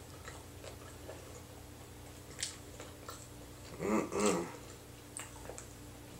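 A person chewing a mouthful of hamburger with small wet clicks, humming a short two-note "mm-mm" of enjoyment about four seconds in, over a steady low hum.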